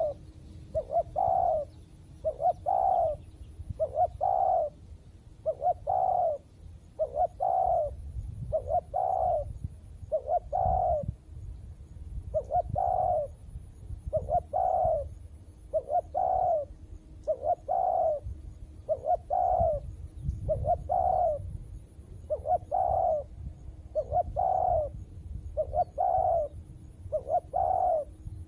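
Spotted dove cooing over and over, a short coo about once a second.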